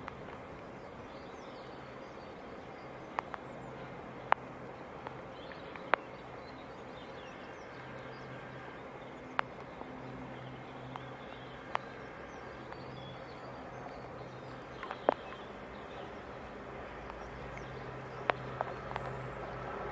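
Approaching GWR Hitachi Intercity Express Train: a faint low hum that comes and goes, then grows louder near the end as the train draws closer. Scattered sharp clicks sound over a quiet outdoor background.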